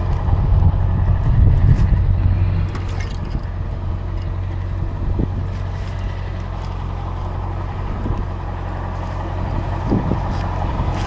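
A motor vehicle's engine running steadily with a low hum, and a few light clicks and knocks over it.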